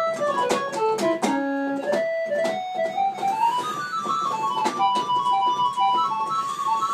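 Old electronic keyboard on its default preset voice playing a fast single-note melody. About a second in, a quick falling run lands on a held low note. A rising run follows, then rapid high notes.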